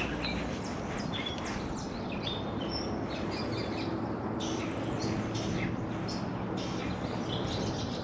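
Songbirds chirping, many short high calls from several birds in quick succession, over a steady background hiss.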